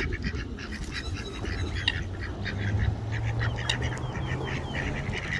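Ducks quacking in a rapid run of short calls, over a low steady hum.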